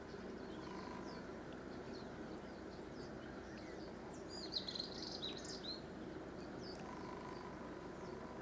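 Small birds chirping and twittering, with a brief, louder flurry of calls about halfway through, over a steady low background rumble.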